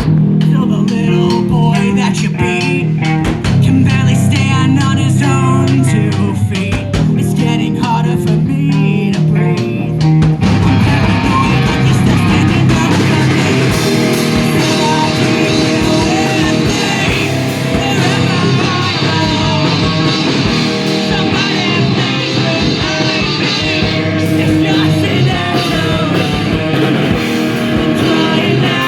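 A metal band playing live: electric guitars, bass and drum kit, with a voice singing. About ten seconds in the full band comes in and the music gets denser and brighter.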